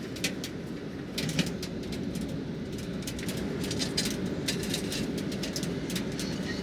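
Wood-burning stove fire crackling, with irregular sharp ticks and pops over a steady low rushing hiss.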